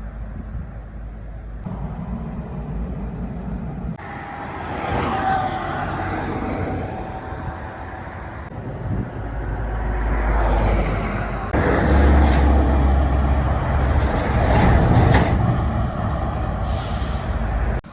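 Road vehicle noise: engines running and traffic passing, heard in several short clips that change abruptly a few times.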